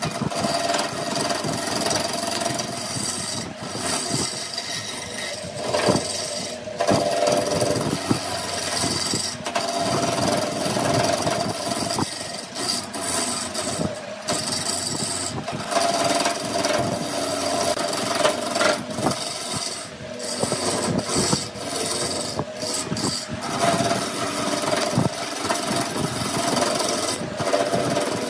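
A power tool working wood: a steady motor hum under a continuous rasping, scraping sound of wood being cut, with scattered short knocks.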